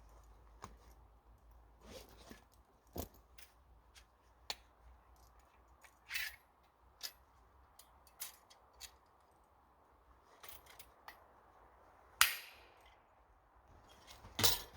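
Wood cracking and snapping in sharp, irregular single cracks every second or two, the loudest about twelve seconds in.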